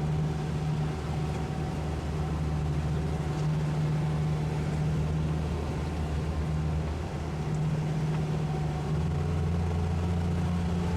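Twin 200 hp Suzuki outboard motors on a towboat running steadily, a low even engine drone that rises slightly in pitch about nine seconds in.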